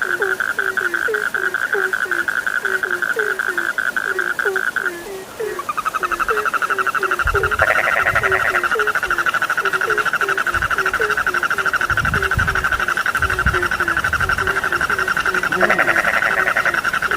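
A chorus of frogs calling: a fast, rapidly pulsing trill that breaks off for a moment about five seconds in and starts again, over a steady run of short, lower croaks, about two or three a second.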